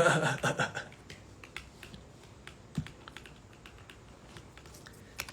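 Irregular light tapping clicks, as of typing, with a brief voice at the very start and a louder knock about three seconds in.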